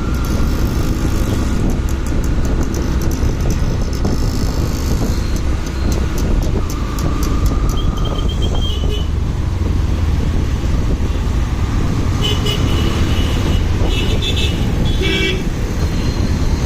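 Wind rumble and motorcycle road noise while riding in city traffic, with short vehicle horn toots about halfway through and several more near the end.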